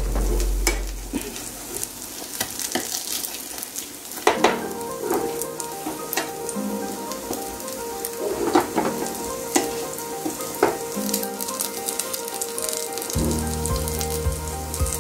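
Aloo tikki potato patties shallow-frying in hot oil in a nonstick pan over a medium flame, sizzling steadily with many small crackles as they brown. There is a low bump at the very start.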